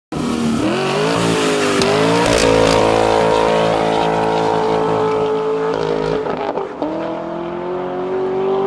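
Car engine revving up and held at high revs, dropping briefly about six seconds in, then revving up and holding again.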